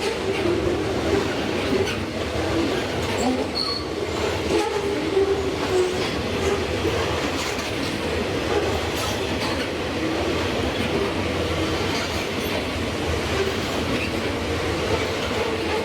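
Freight train cars rolling past, a steady rumble and rattle of steel wheels on the rails.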